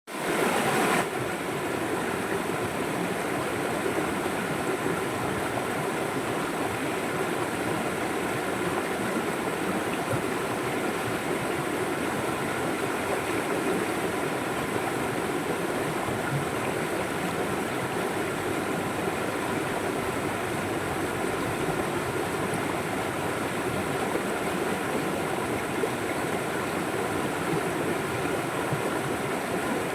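River water flowing steadily, a continuous even rush, a little louder in the first second.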